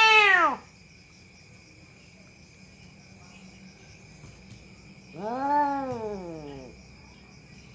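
Domestic cat yowling: long drawn-out calls that rise and then fall in pitch. One call trails off just after the start and another comes about five seconds in, with a faint steady high whine underneath.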